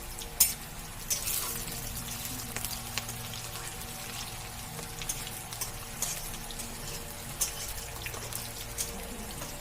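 Water running or being poured, with scattered light clicks and knocks.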